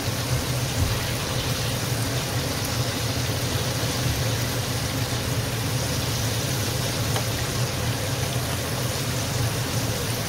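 Cornflour-coated chicken pieces deep-frying in hot oil, a steady sizzle, with a steady low hum underneath.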